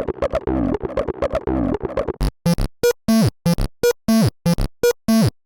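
AcidBox 303-emulator synth playing an acid bass pattern: fast sequenced resonant-filter notes, which about two seconds in turn into a dozen or so short, separate notes, several sliding down in pitch, before the sound cuts off suddenly near the end.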